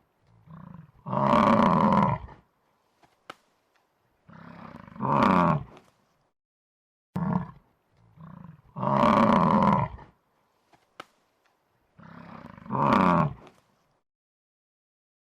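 An animal's loud calls: a short call and a low grunt, then a long loud call, then a rising call. The same sequence is heard twice.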